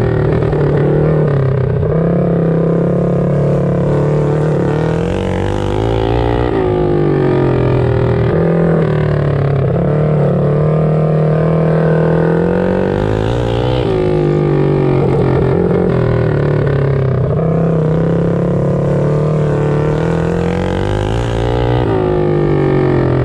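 Mini bike engines racing around a small flat track, rising in pitch along the straights and dropping off into the turns every few seconds.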